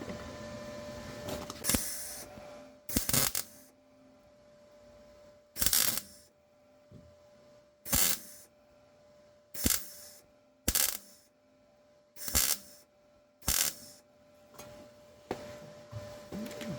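MIG welder laying a series of short tack welds on car body steel: about eight brief crackling bursts one to two seconds apart, with a faint steady hum beneath.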